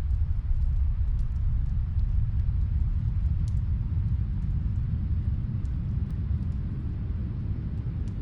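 Snowstorm wind as a steady low rumble, with faint scattered crackles from a wood fire.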